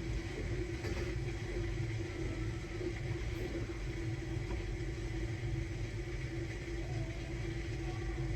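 Samsung Bespoke Grande washing machine running its quick-wash cycle: a steady low rumble with a constant hum over it.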